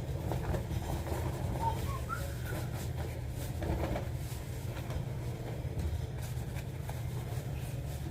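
A steady low rumble, with faint voices of people talking in the background.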